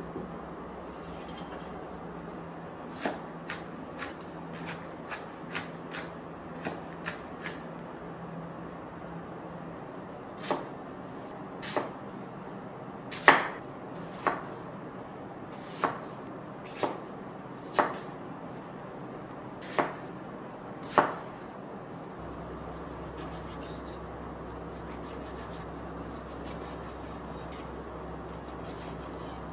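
A run of light clicks, then about nine sharper knocks of a hard object, spaced a second or so apart. A low steady hum comes in near the end.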